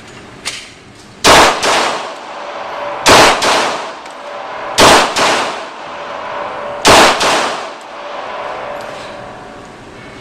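Four loud gunshots about two seconds apart, each followed at once by a weaker second crack or echo and a short fading tail.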